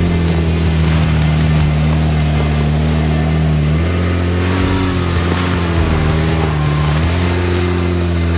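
Jeep Wrangler's engine running with a steady drone as it crawls up a rutted dirt trail under load. Its pitch steps up about four seconds in and drops back near the end.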